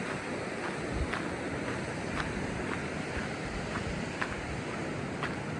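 Steady rush of river water and a waterfall, with wind on the microphone, and faint footsteps about once a second.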